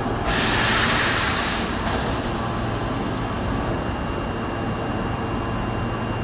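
Osaka Metro 22 series subway train: a sharp hiss of compressed air lasting about a second and a half, then the train's steady low rumble with a faint thin whine.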